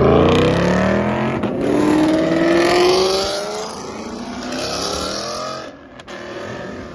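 A car engine accelerating hard, its pitch rising through a couple of gear changes, fading as the car pulls away.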